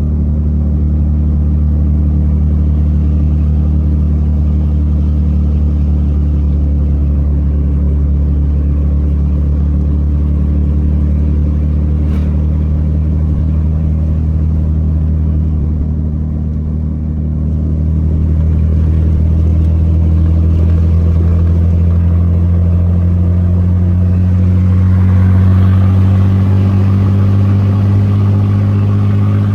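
Vehicle engine and road noise while driving, a steady low drone. It eases off briefly about halfway through, then climbs a little in pitch as the vehicle speeds up.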